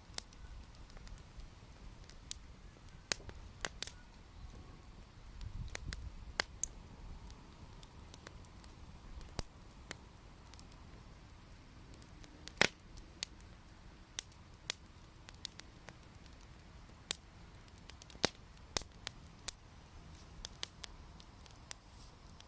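Wood bonfire crackling: sharp, irregular pops and snaps of burning wood over a soft hiss, with a brief low rumble about six seconds in.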